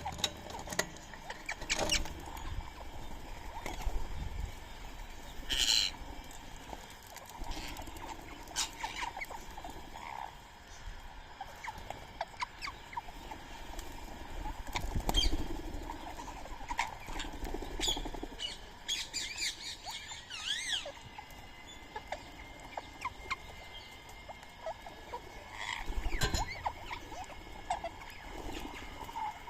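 Birds and a squirrel feeding: scattered pecking, tapping and scrabbling at soaked rice and corn, with short bird calls and chirps between the taps. A cluster of quick chirps comes about two-thirds of the way through.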